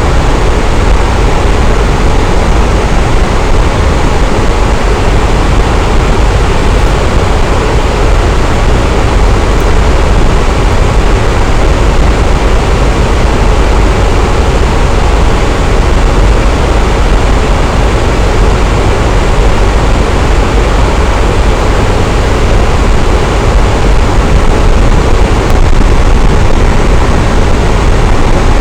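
Electric fan running steadily, a loud, even whooshing rush of air with a deep low rumble.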